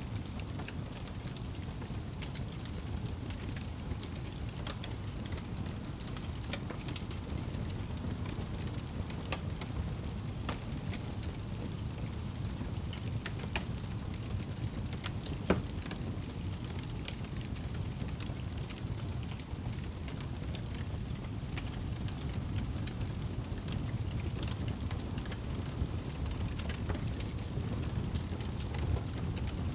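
Wood fire burning in a fireplace: a steady low rumble with scattered small crackles and one louder pop about halfway through.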